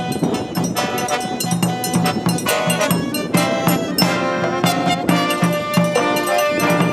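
Live brass band music: brass instruments playing a melody over a steady drum beat.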